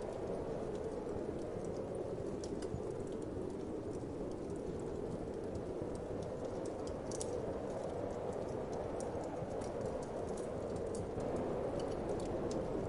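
Wood fire crackling, with irregular sharp snaps and pops, over a steady low rush of wind.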